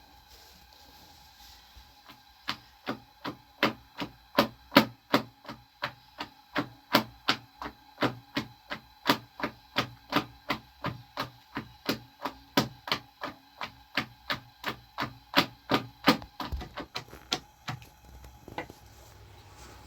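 A steady series of sharp knocks, about two and a half a second, for some fourteen seconds, then a few quicker, lighter knocks and a last single one before they stop.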